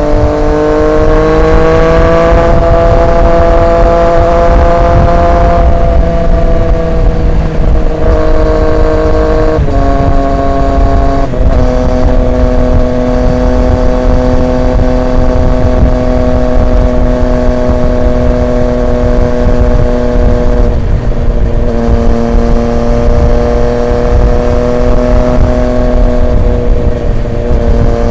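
Triumph Street Triple 765 RX's inline three-cylinder engine through an SC Project S1 exhaust, pulling up in pitch over the first couple of seconds, then cruising at a steady note. The pitch steps down a few times, sharply about ten seconds in, over a low rush of road and wind noise.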